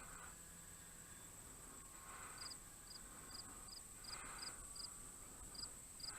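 Faint cricket chirping, short high chirps repeating about two or three times a second, over a steady high-pitched hum.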